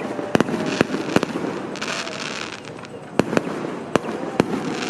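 Fireworks and firecrackers going off: a run of sharp, irregular bangs, with a burst of crackling about two seconds in.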